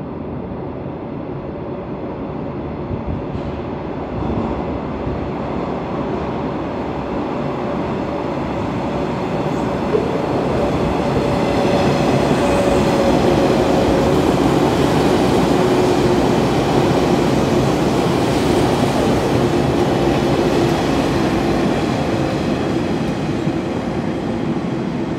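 485 series 'Hana' electric multiple unit running through a station without stopping: the rumble of its wheels and running gear builds as it comes out of the tunnel, is loudest while the cars pass, then eases as it moves away. A steady hum rides over the rumble while the cars go by, and there is one sharp click about halfway through.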